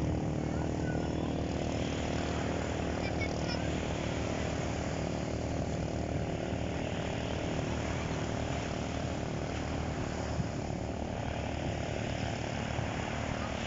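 Motorized bangka boat engine running steadily at a constant speed, a continuous even drone.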